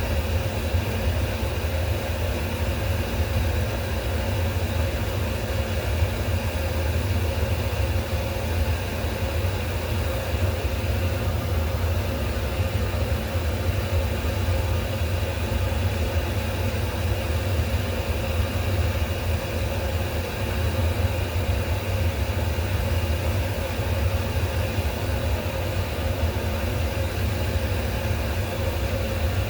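A steady low machine hum with a faint higher tone riding on it, unchanging throughout.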